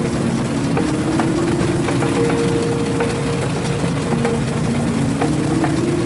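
Engine of a rail vehicle running steadily, with the rumble of travel along the track and scattered short clicks.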